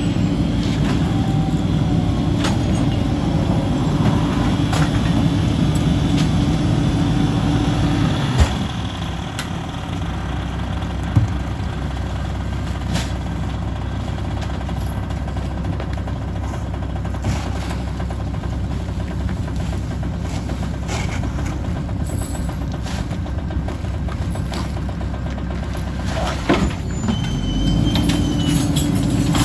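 Mack LE garbage truck with a Heil packer body, its engine revved up to drive the packer while crushing trash, dropping back to idle about eight seconds in and revving up again near the end. Scattered knocks and clunks of trash and metal throughout.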